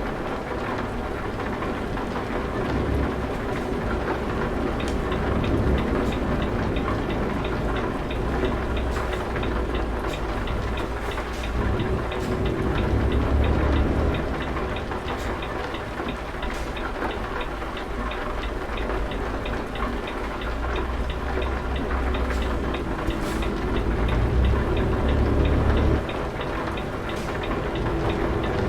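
Heavy truck driving, a steady low rumble that swells and eases, with a fast, faint regular ticking from about five seconds in.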